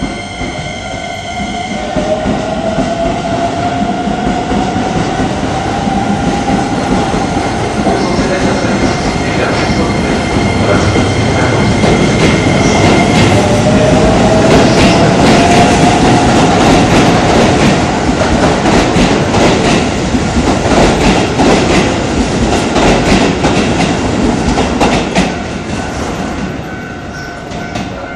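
Electric commuter train pulling out past the platform: its motors whine upward in pitch twice as it gathers speed, and its wheels clatter over the rail joints, loudest midway and dying away near the end.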